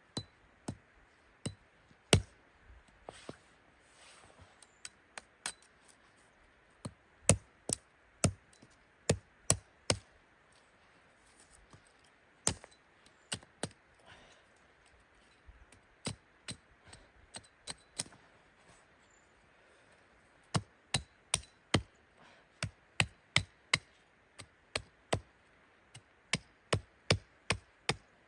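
Wood being chopped with a hand tool: sharp, separate strikes, irregular at first, some in quick runs of two or three, then a steadier run of about two strikes a second in the last third.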